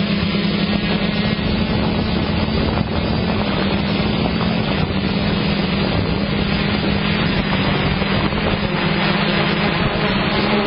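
Motocross bike engines running on the track as a loud, steady drone, with one engine revving up near the end.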